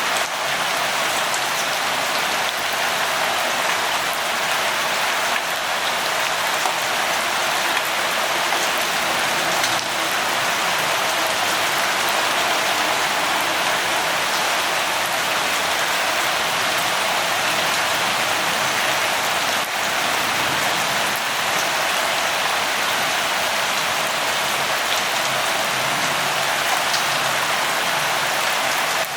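Steady light rain: an even, dense hiss of falling rain with faint scattered drop ticks.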